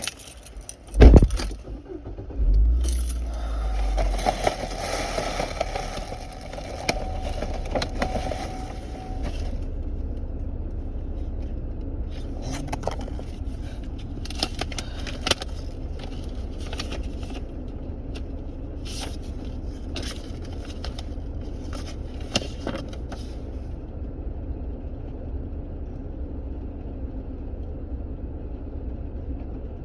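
A loud thump about a second in, then a car's engine running steadily, with intermittent rustling and scraping of things being handled until a little past the middle.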